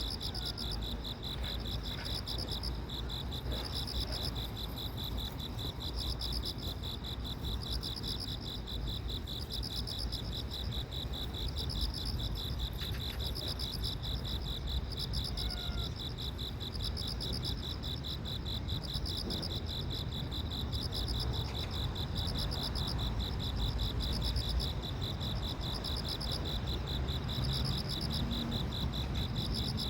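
Insects chirping: a steady high trill, with a second, higher trill pulsing on and off about once a second, over a low rumble.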